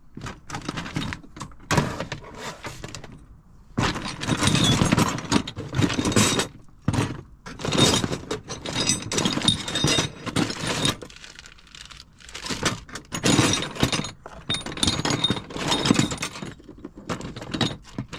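Metal brake parts being rummaged through in a box: irregular clanking, jangling and scraping, in repeated bursts with short pauses between.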